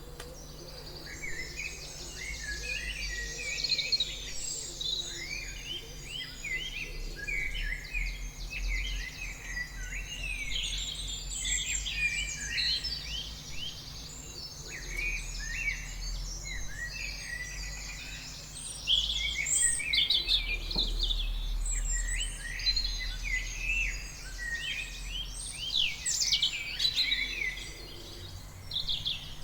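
Dense chorus of many songbirds chirping and trilling over one another without pause, over a faint steady low hum.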